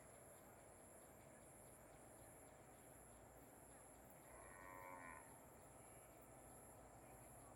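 A single faint, distant moo from a cow, about a second long, a little past the middle, over a steady faint high-pitched buzz.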